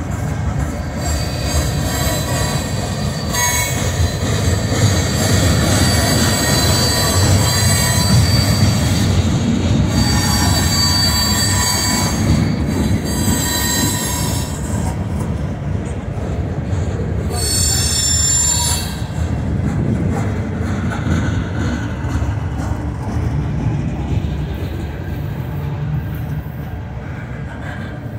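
Freight train cars rolling steadily past a grade crossing: a continuous low rumble of steel wheels on rail. High-pitched wheel squeal comes and goes several times over it, strongest a few seconds in and around the middle.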